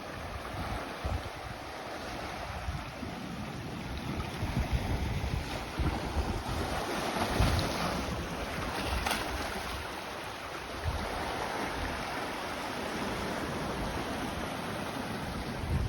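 Sea waves washing onto the beach, building to a louder surge about halfway through, with wind buffeting the microphone.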